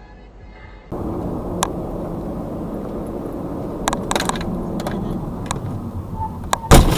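Steady road and engine noise inside a car, with a few sharp clicks, then near the end a sudden loud crash of a car collision: the car struck from behind and shoved into the car ahead.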